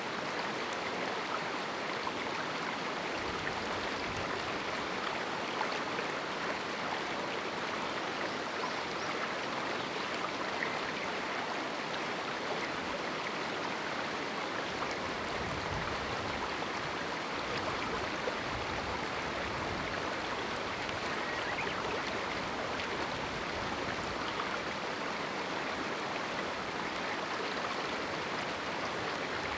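A river flowing over rocks in a small canyon: a steady rushing of water with no let-up.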